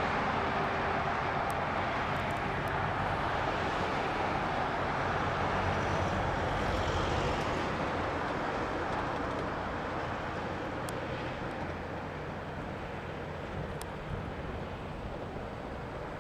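Steady rushing and rumbling noise of a passing motor vehicle or other traffic, slowly fading away.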